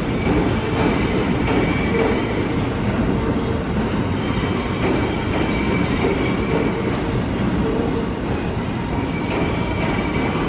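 New York City subway train running on the track: a steady rumble with faint, on-and-off wheel squeal and scattered clicks from the rails.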